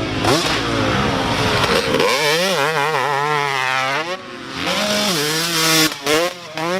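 Two-stroke dirt bike engine revving hard, its pitch rising and falling quickly as the throttle is worked on and off, with brief dips where the throttle is chopped about four seconds in and again near the end.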